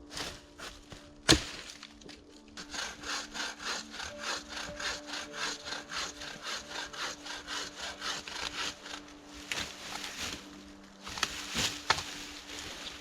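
Hand saw cutting through wood with quick, even strokes, about four a second. There is a sharp knock about a second in, and a few louder, irregular strokes near the end.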